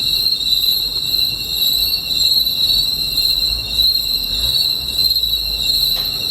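Evening chorus of insects, such as cicadas or crickets, making a steady, shrill, high-pitched drone layered at several pitches.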